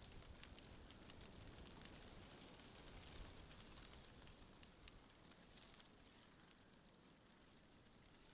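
Faint wind with a soft rustle, swelling slightly and easing off, with scattered tiny clicks and crackles.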